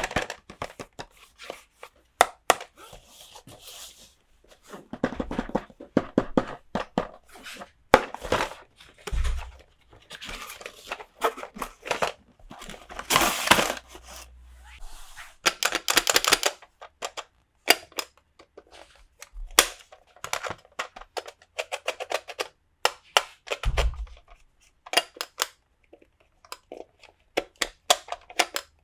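Plastic toy pieces and packaging being handled close up: many sharp clicks and taps, several stretches of crinkly rustling, and a couple of dull thumps, one about nine seconds in and another near twenty-four seconds.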